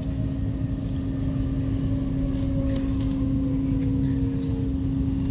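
First-generation Brussels metro train (M-series stock) running: a steady low rumble with a constant hum, and a fainter motor whine that falls gently in pitch over about four seconds.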